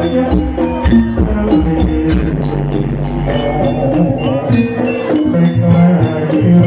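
Jaranan accompaniment music from a Javanese gamelan-style ensemble: struck tuned metal percussion and drums playing a busy pattern over held low tones.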